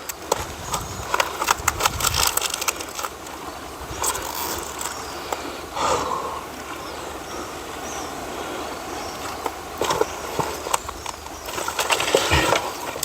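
Dry firewood being gathered by hand: sticks and branches knocking, clattering and snapping, with rustling in between.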